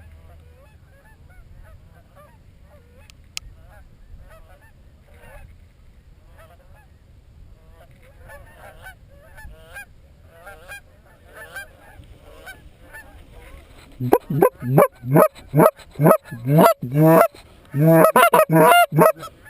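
Geese honking faintly, then from about 14 seconds in loud, rapid honks and clucks close by, several a second, with a brief pause a few seconds later.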